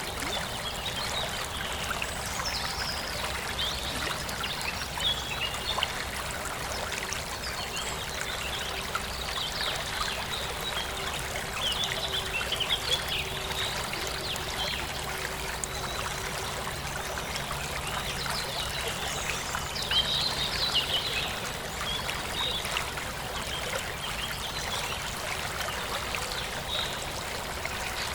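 Forest stream flowing and trickling steadily, with birds chirping now and then.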